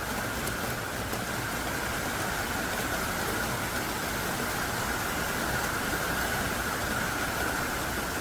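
Heavy rain pouring down steadily, a dense, even hiss of water with no pauses.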